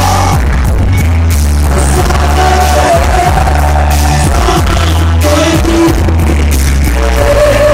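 Live band music with a loud, steady bass line and a melody line above it.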